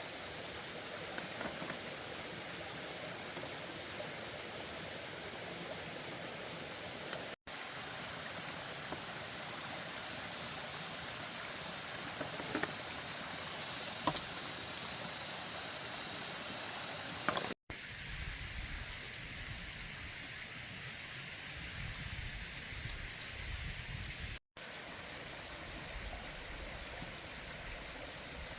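Steady outdoor background hiss with a faint, high, steady whine above it. The sound drops out abruptly three times, and after the second break a low rumble and a few short high chirps come in.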